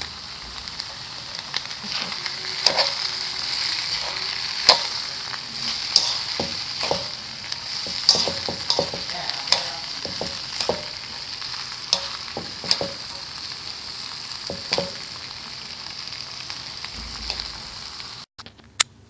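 Fried noodles sizzling in a pan while being stirred and tossed with a spatula, which knocks and scrapes against the pan at irregular moments. The sizzling cuts off suddenly near the end.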